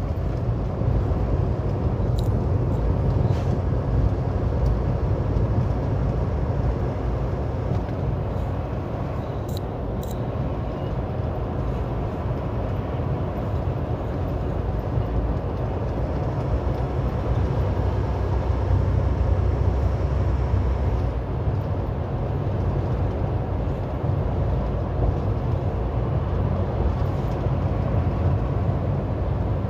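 Semi-truck diesel engine and road noise heard from inside the cab at highway speed: a steady, low drone that does not change.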